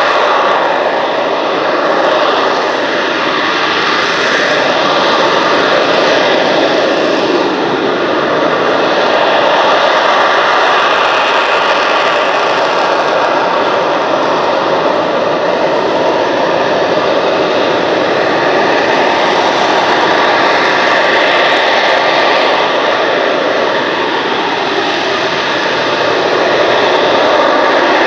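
McDonnell Douglas EAV-8B Harrier II's Rolls-Royce Pegasus turbofan running loudly and continuously, a dense jet rush with steady high whining tones and slow shifts in pitch.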